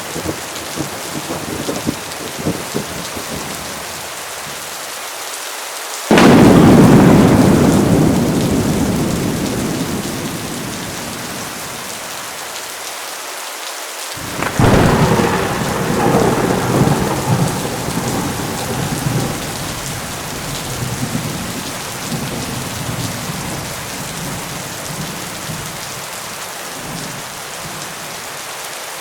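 Heavy rain falling steadily, with a sudden loud thunderclap about six seconds in that rumbles away over several seconds. A second, rolling peal of thunder comes about halfway through.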